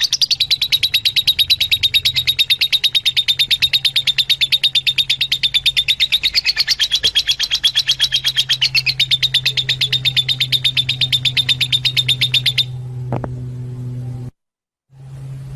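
Fischer's lovebirds chattering: a rapid, even run of high chirps that stops about three-quarters of the way through, over a steady low hum.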